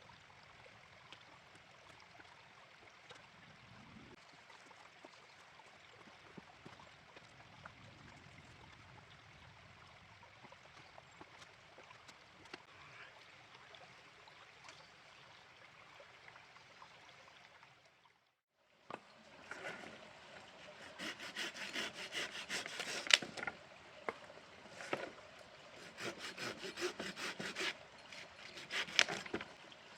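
Faint steady flow of a mountain stream. After a brief break about 18 seconds in, close, irregular knocking, rubbing and scraping, with many sharp clicks, from something being handled by hand.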